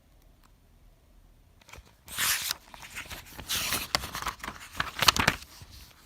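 Rustling and scraping noise in several bursts, starting about two seconds in, with the loudest burst near the end.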